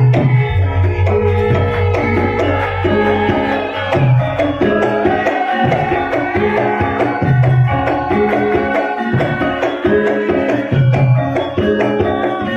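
Live Javanese traditional music: hand drums strike a recurring rhythm of deep, ringing strokes while a wavering melodic line runs over them.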